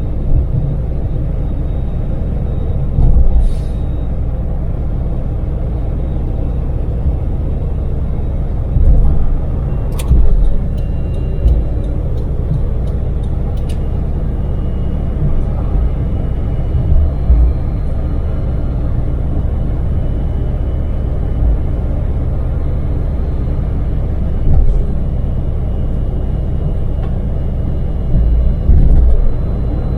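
Daewoo Damas mini van's LPG-fuelled three-cylinder engine and road noise while driving on an expressway: a steady low rumble with brief louder low thumps every few seconds, and a sharp click about ten seconds in.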